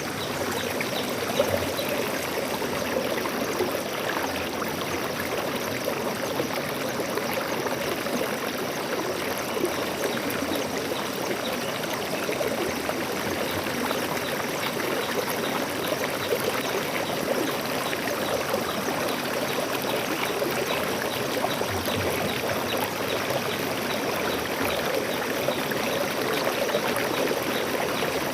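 Stream water flowing and splashing steadily over rocks, a continuous rushing and trickling.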